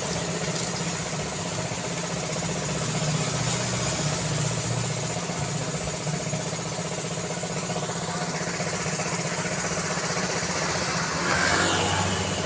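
Street traffic: a steady wash of engines and tyre noise from vehicles running and idling on a city road. It gets louder near the end as one vehicle passes close.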